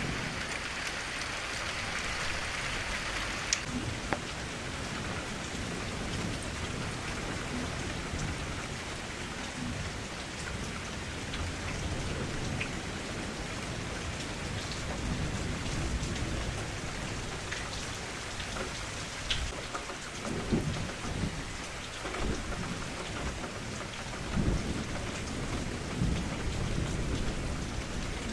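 Steady rain falling against a window, a dense patter with occasional sharper drop ticks. Low rumbles come in a few times in the second half.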